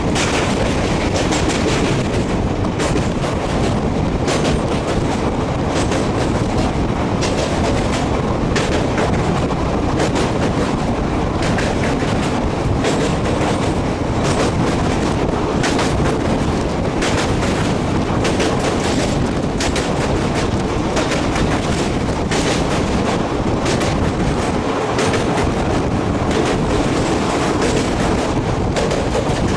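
Passenger train running on broad-gauge track: a steady rumble of the coaches with repeated sharp clicks as the wheels pass over rail joints.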